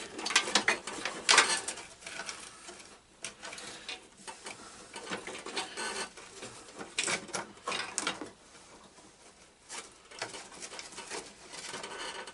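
Irregular clicks, taps and light rattles of hand tools and parts being handled while disconnecting wiring on a riding mower.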